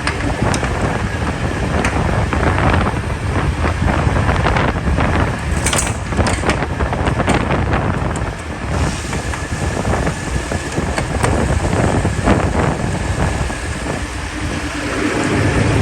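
Wind buffeting the microphone over a steady vehicle rumble, with scattered short clicks and knocks.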